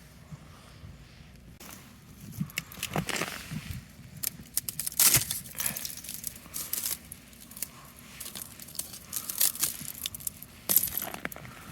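Irregular crunching and crackling of ice, as ice-crusted snow or ice-coated twigs break under foot or hand.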